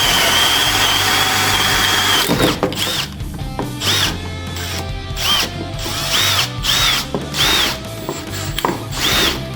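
Electric drill boring into wood: the motor runs steadily for about two seconds, then is pulsed on and off, its whine rising and falling with each squeeze of the trigger.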